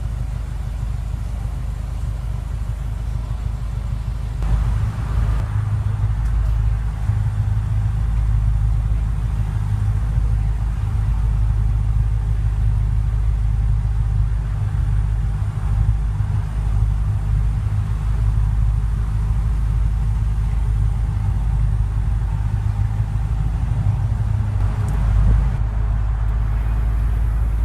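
Steady low rumble of an idling car engine, with a louder patch about four and a half seconds in and another near the end.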